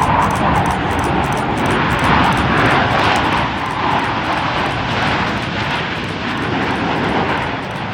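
Aircraft engine noise, a loud steady rushing sound that swells gently and fades a little near the end.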